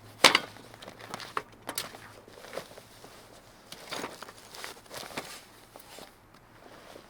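Scattered short clicks and knocks, the loudest a sharp knock just after the start.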